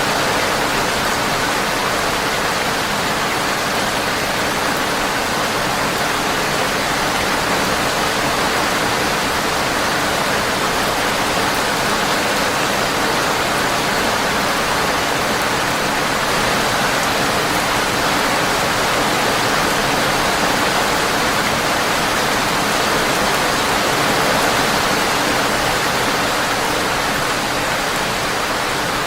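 Steady, dense rain on a windowpane, an even hiss that does not change.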